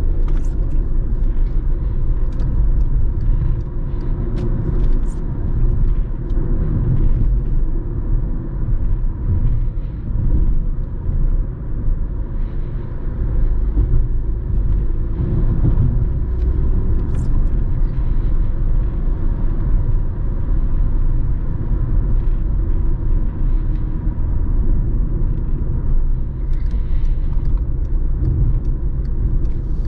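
Steady, loud low mechanical rumble with scattered light clicks and knocks and a faint steady hum.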